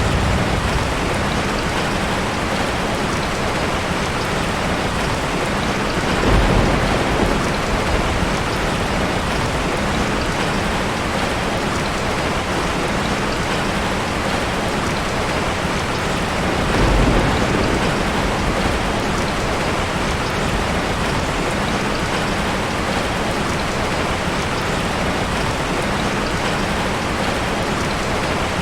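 Heavy rain pouring steadily on a tin roof, with two short low rumbles of thunder, about a quarter of the way in and again just past halfway.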